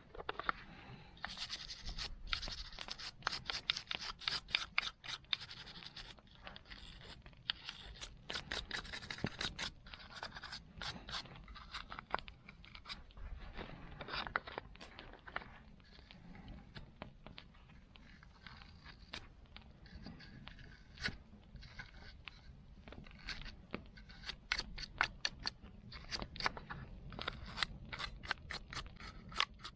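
Irregular scraping strokes and many sharp clicks of metal hand work on a saw. The clicks and scraping are densest in the first ten seconds and again near the end.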